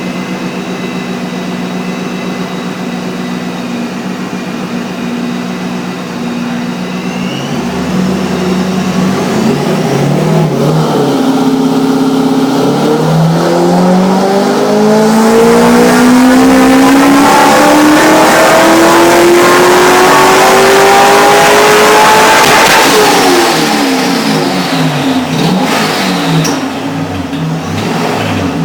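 Vortech-supercharged C5 Corvette V8 on a chassis dyno: running steadily at first, then a long wide-open-throttle pull with the revs rising steadily to the loudest point, before the revs fall away and it winds down near the end. This is the run on which the exhaust gasket blew.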